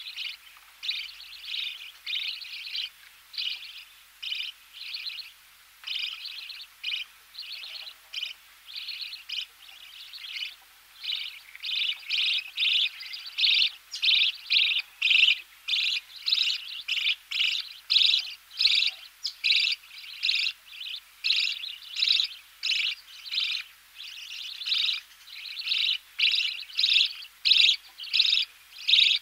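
Budgerigar chicks begging in the nest while being fed: close-up rapid series of short, high chirping calls, about two a second, growing louder and coming faster after about ten seconds.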